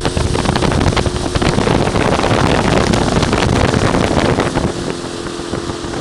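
Heavy wind buffeting the microphone during a fast ride, with a vehicle engine running underneath. The wind eases a little about five seconds in, and the engine's steady drone becomes clearer.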